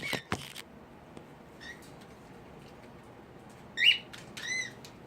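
Cockatiels giving three short whistled chirps, faint at first, then a loud one about four seconds in, followed quickly by a rising-and-falling call. A few sharp clicks and rustles come near the start.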